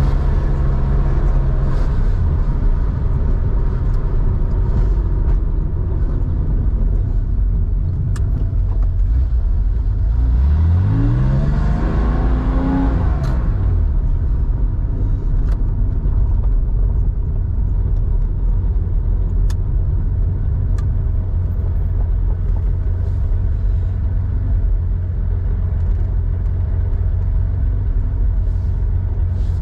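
Air-cooled flat-six of a 1987 Porsche 911 bored out to 3.4 litres, running through a 2-in-1-out muffler under way with a steady low rumble. About ten seconds in it revs up over two or three seconds, then drops back.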